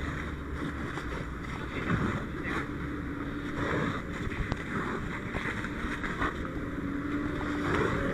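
A steady rushing noise over a low engine drone, with a few faint knocks.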